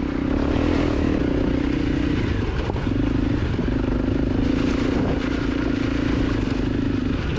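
A 250 cc dirt bike engine running steadily under way, its note easing off briefly a little over two seconds in and again near the end.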